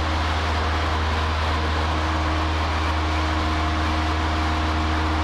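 Cessna 152's Lycoming four-cylinder engine and propeller droning steadily in flight, with a deep hum under a broad hiss of airflow.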